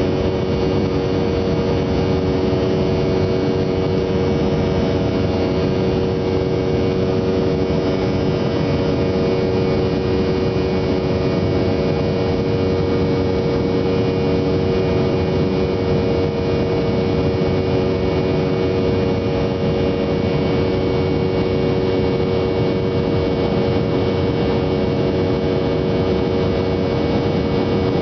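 Steady drone of an aircraft's engines and propellers in flight: an even hum with several fixed tones and no change in pitch or level.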